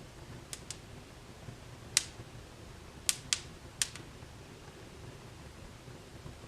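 Wood fire in a fireplace crackling: about six sharp, irregular pops and snaps over a low, steady hiss of burning, the loudest pop about two seconds in.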